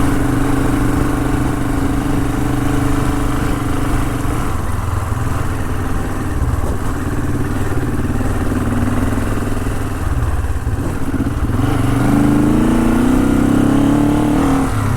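Honda CL450's parallel-twin engine running steadily under way, its pitch rising as it accelerates about twelve seconds in.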